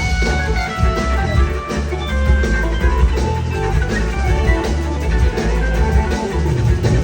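Live band music: electric guitar playing held and moving notes over a drum kit and a heavy, steady bass.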